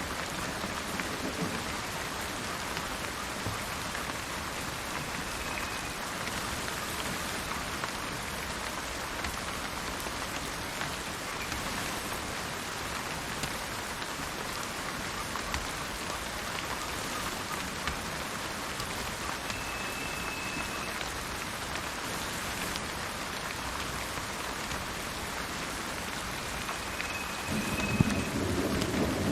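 Steady rain falling, with a low rumble of thunder swelling near the end. A few brief, faint high bird notes sound three times over the rain.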